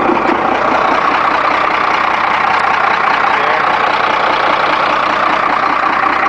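1991 Ford F800's rebuilt six-cylinder diesel engine idling steadily and smoothly.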